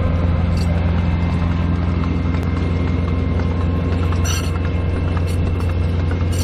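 Diesel-hydraulic sugar cane locomotive running at a steady engine note, with scattered light clicks and knocks from the train.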